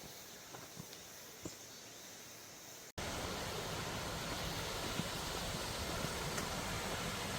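Quiet footsteps, scattered light steps, then an abrupt cut about three seconds in to the steady rushing of a mountain valley stream.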